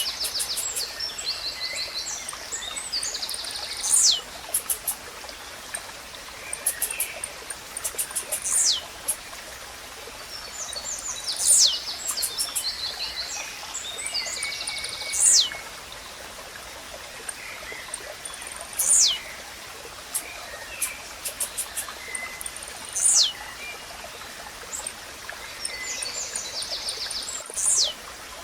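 Blue-black grassquit (tizil) singing: a short, sharp descending note repeated about every four seconds, among fainter chirps, quick clicking trills of other birds and a steady background hiss.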